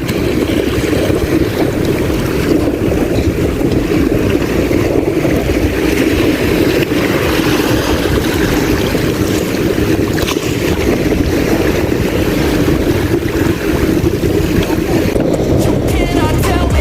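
Sea waves surging and wind buffeting the microphone: a steady, loud rushing noise.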